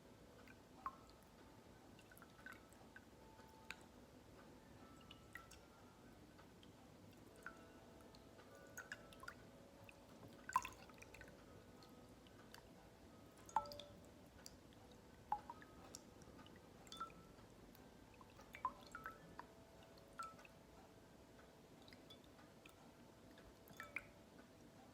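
Faint wind chimes ringing, their held tones overlapping, with scattered sharp ticks and taps throughout.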